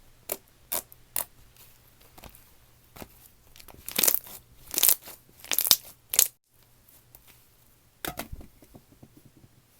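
Slime being pressed and stretched by hand, giving a series of sharp crunchy pops and crackles, the loudest a run of four from about four to six seconds in and a quick cluster near eight seconds.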